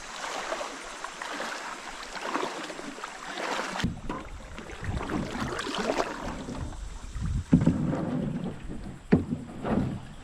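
Water splashing and sloshing around a canoe, heavier from about four seconds in, with a couple of sharp knocks in the second half.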